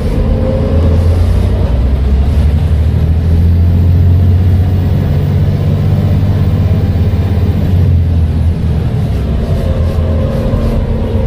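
Volvo B7TL bus's diesel engine and Voith automatic gearbox under way: a steady low engine drone with a whine above it that rises and falls in pitch.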